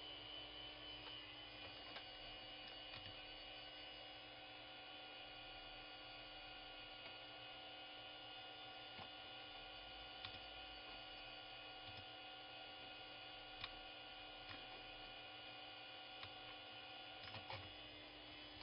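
Steady low hum and whine of running computer hardware, holding several constant tones, with a few faint clicks here and there.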